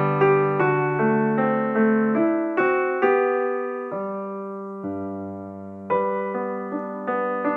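Background music: a slow, gentle piano melody of single struck notes that ring and fade over sustained chords.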